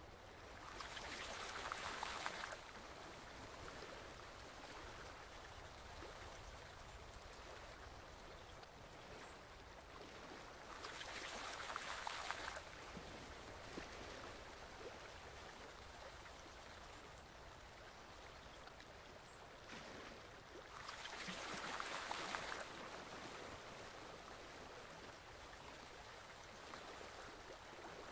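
Water flowing steadily in a stream, with a louder rush swelling up three times, about every ten seconds.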